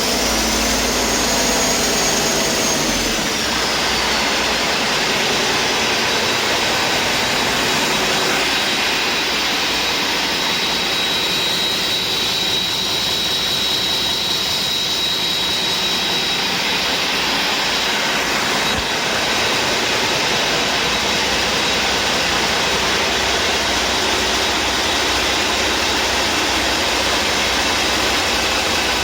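2016 Cummins ISX15 inline-six diesel running steadily on a test run, loud throughout. A high whine over the engine noise drops in pitch about three seconds in, and a steady high whistle comes and goes in the middle.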